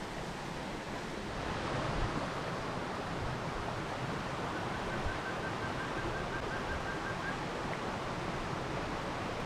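Steady rushing of stream water, with a faint, quick run of high ticks near the middle.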